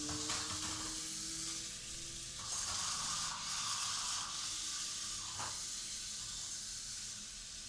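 Mini RC stunt roller car running its automatic demo mode: a hissing whir of its small electric motors and wheels, changing about two and a half seconds in and again about five and a half seconds in as it switches moves.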